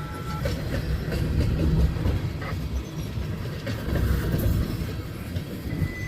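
Freight train cars rolling past, wheels clacking over the rail joints with a steady rumble.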